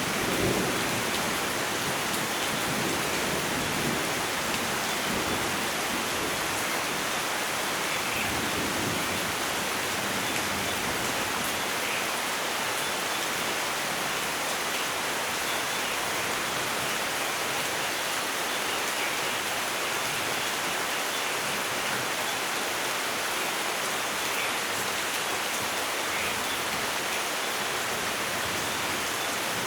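Steady, heavy rain falling as an even hiss, with the last low rumble of a thunderclap dying away in the first second or so.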